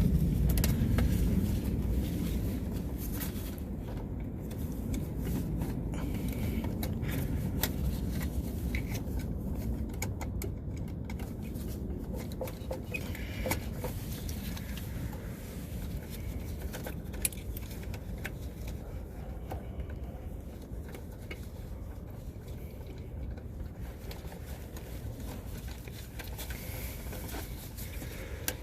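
Small scrapes and clicks of hand work on contactor wiring, over a steady low background rumble.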